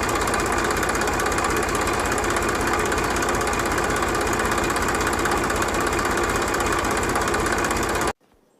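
Small motor of a homemade mini tractor running steadily with a fast, even rattle. It cuts off suddenly near the end.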